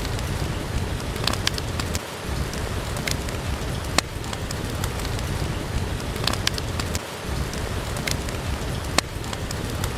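Steady rain with a log fire crackling, giving sharp pops every second or so.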